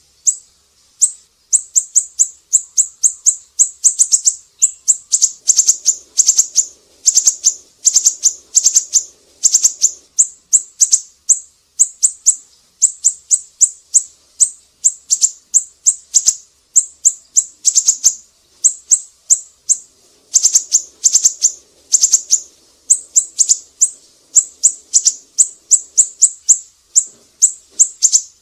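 Siri-siri bird calling: a long series of short, sharp, high chirps, several a second, delivered in quick runs with brief gaps.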